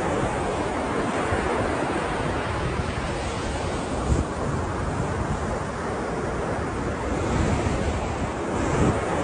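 Ocean surf: a continuous rushing wash of waves that swells slightly a couple of times near the end, with a brief low knock about four seconds in.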